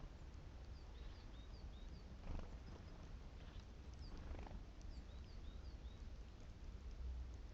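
Great tit singing a repeated high two-note phrase, a short hooked note then a higher falling one, about two to three times a second. Two brief rustles break in about two and four seconds in, over a steady low rumble.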